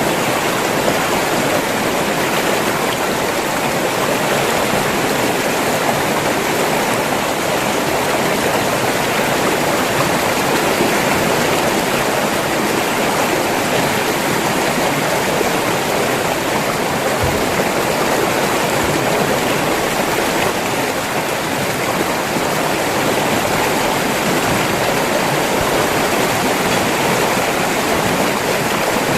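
River water rushing and splashing over rocks, a steady full rush with no change in level.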